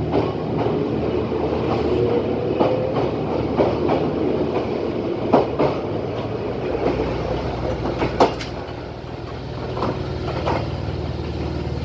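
Chichibu Railway 5000 series electric train pulling away. Its motor whine rises in pitch over the first few seconds over a steady rumble, then come several sharp clacks of wheels over rail joints, and the noise eases off near the end.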